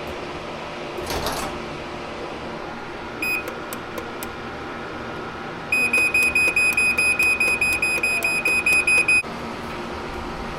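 Chamberlain garage door opener beeping: one short high beep about three seconds in, then a quick run of even beeps, about four or five a second, for some three and a half seconds, over a steady background hum.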